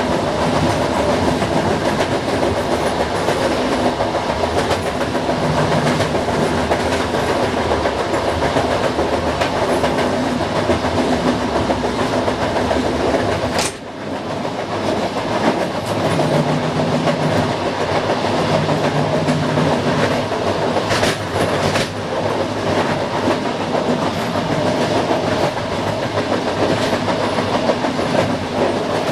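Passenger train running at speed, heard from inside the rear cab: a steady rumble of wheels on the track with clicks over rail joints. A sharp crack comes about halfway through, after which the deepest part of the rumble falls away.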